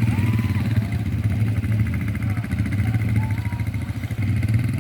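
ATV quad bike engine running steadily, a dense low drone with no clear revving.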